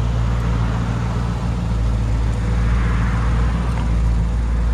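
Lamborghini Urus's twin-turbo V8 running steadily at a low, even engine note with no revving.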